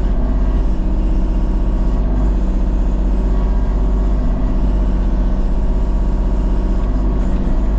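Engine of a land-clearing machine running steadily under work, a loud, even rumble.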